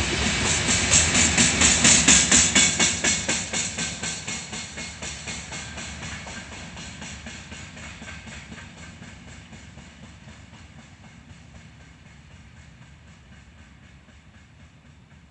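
Freight train's open wagons going past, their wheels clattering quickly and evenly over the rail joints. The clatter is loudest about two seconds in as the last wagons pass, then fades steadily as the train moves away.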